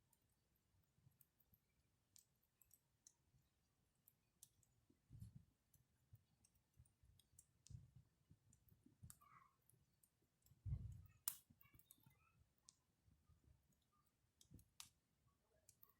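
Faint campfire crackling: scattered sharp pops and clicks of burning wood, with a few dull low thumps, the loudest about two-thirds of the way through.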